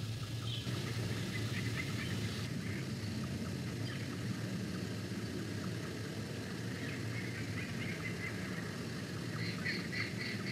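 A bird calling in a rapid run of high, evenly repeated chirps that builds up about two-thirds of the way in and is loudest near the end, over a steady low rumble.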